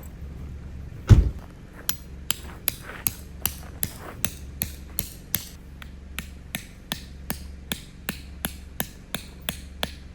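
A heavy thud, then a hammer striking a tent stake over and over at a steady pace, about two and a half blows a second, with a short pause in the middle.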